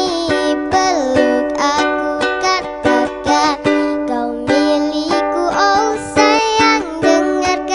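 A child singing a melody with ukulele strumming along in a steady rhythm.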